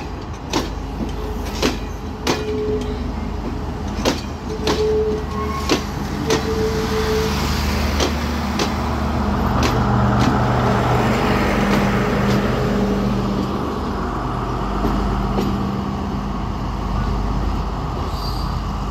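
Class S12 diesel multiple unit pulling out: carriage wheels clicking over rail joints with a few short squeals, then the power car's diesel engine passes close with a steady low hum from about ten seconds in.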